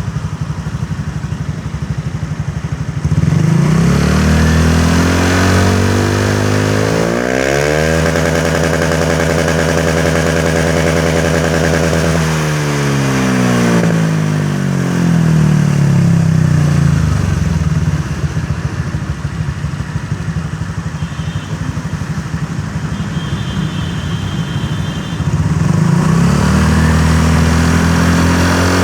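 Honda Vario 125 scooter's single-cylinder four-stroke engine through a Tusky aftermarket exhaust, idling with a steady pulse, then revved up about three seconds in, held high for about four seconds and let drop back to idle. It is revved again near the end.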